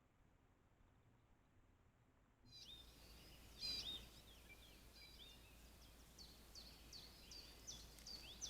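Songbirds chirping and singing in short, repeated high notes, which begin suddenly about two and a half seconds in after near silence, over a low outdoor rumble. A brief louder noise comes about a second after the birds start.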